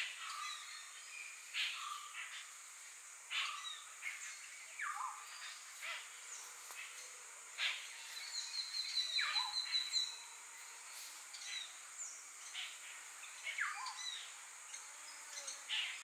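Wild birds calling: a scatter of short, sharp, mostly falling notes, with a quick run of repeated notes about eight seconds in, over a steady high hum.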